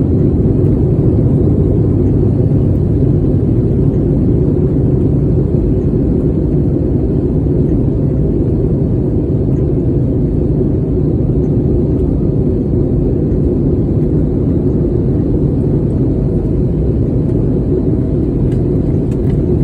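Aircraft cabin noise: a steady low rumble of engine and airflow noise heard from inside the passenger cabin.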